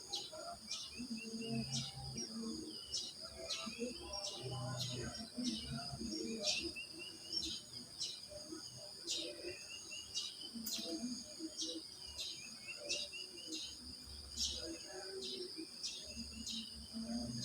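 A steady high drone of crickets, with a bird giving short sharp chirps over and over, about two a second, and other birds calling softer and lower in the background.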